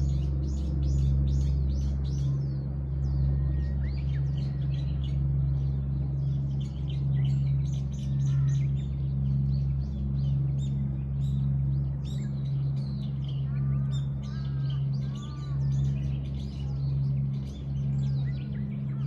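Songbirds chirping and twittering constantly in a dense chorus of short high notes. About two-thirds of the way through come a few lower, arched calls. A steady low hum runs underneath.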